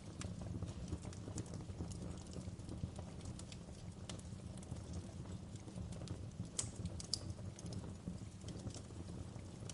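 Wood fire crackling in a fireplace: irregular sharp pops and snaps, a couple of louder ones past the middle, over a steady low rush blended with gentle rain.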